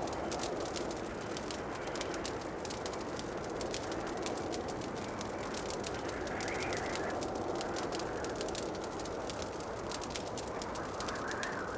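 Wood fire crackling in a fireplace: a dense, irregular run of small pops and snaps over a steady rushing hiss that swells slightly about halfway through and again near the end.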